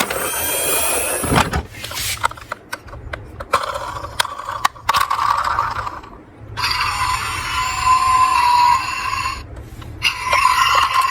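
Small toy vehicles clicking and knocking against each other and a plastic slope, then rolling down it with a whirring scrape, in two runs separated by short pauses.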